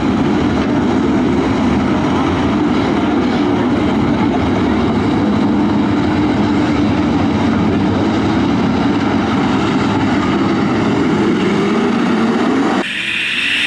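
A field of dirt-track race trucks' engines running together, several engine pitches rising and falling over one another. Near the end the sound changes suddenly to a louder, higher-pitched engine noise that keeps building.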